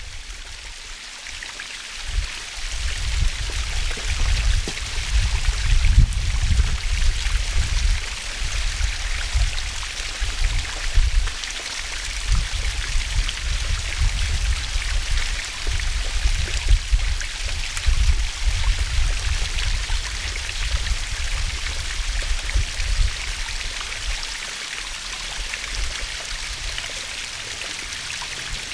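Waterfall rushing steadily, a constant hiss of falling water with an uneven low rumble underneath.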